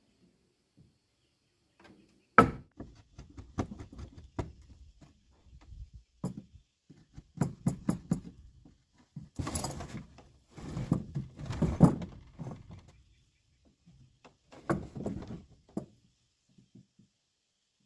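Wooden parts of a window frame being handled and fitted: irregular knocks and taps of wood on wood, one sharp knock a couple of seconds in, with stretches of scraping and rubbing in the middle and again near the end.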